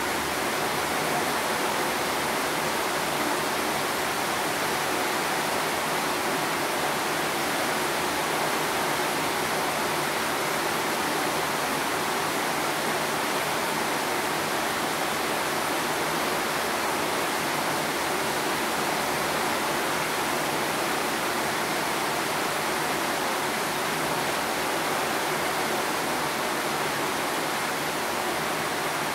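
Steady hiss of rain falling, unbroken and even throughout.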